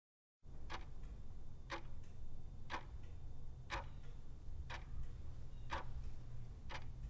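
Clock ticking once a second, sharp even ticks over a steady low hum, starting abruptly about half a second in.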